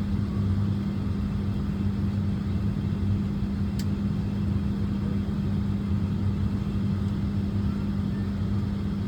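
Steady low mechanical drone of aircraft machinery on the ramp during pushback, with a constant deep hum under it. A single short click about four seconds in.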